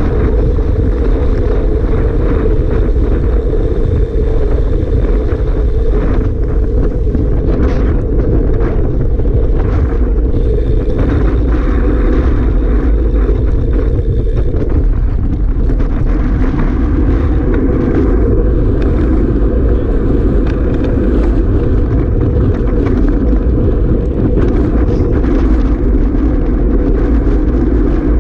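Strong wind buffeting the microphone: a loud, steady, rumbling roar.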